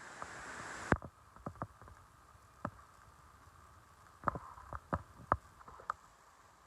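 A faint hiss that cuts off about a second in, then a dozen or so irregular sharp clicks and taps, a few of them louder.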